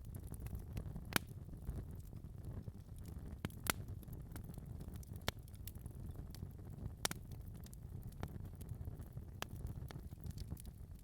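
Wood fire burning in a fireplace: a low steady rumble of flame with irregular sharp crackles and pops, a few of them louder than the rest.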